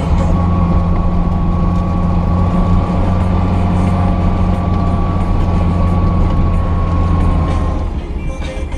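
Lada Niva 2121's engine and drivetrain running under way off-road, a steady low drone with a steady high whine over it. Both drop away about eight seconds in.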